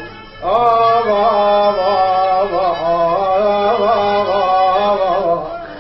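A male voice singing one long, wordless, ornamented melismatic phrase in Middle Eastern vocal style, its pitch wavering and turning, over steady low sustained accompaniment. The phrase starts about half a second in and eases off near the end.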